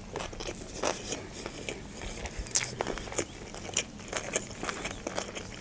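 Close-up sound of a person chewing a mouthful of sushi roll: irregular wet clicks and soft crunches.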